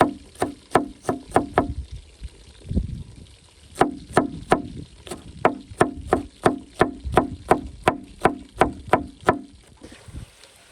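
Rhythmic chopping on a wooden board, about three strikes a second, in two runs separated by a pause of about two seconds with some low handling noise.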